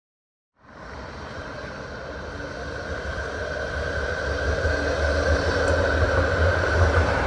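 Tram running on its rails: a steady low rumble with a higher running hum that cuts in suddenly about half a second in and grows gradually louder.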